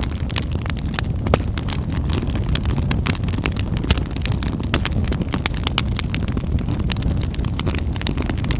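Wood fire burning in a fireplace, crackling with many sharp irregular pops over a steady low rumble of the flames.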